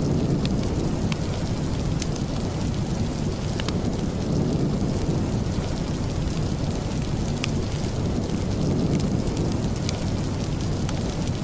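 Steady rain with a deep low rumble, and scattered sharp ticks throughout.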